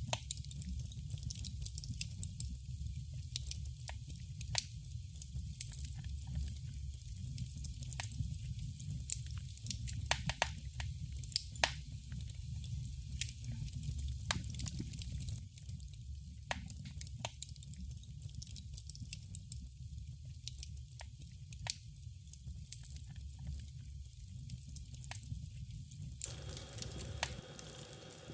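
Wood fire crackling, with irregular sharp pops and snaps over a steady low rumble. Near the end a steadier hiss fills in.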